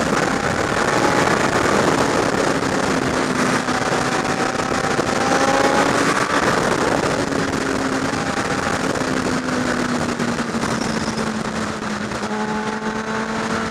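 Motorcycle engine running at road speed under heavy wind rush. The engine note drifts slightly up and down as the bike moves through traffic.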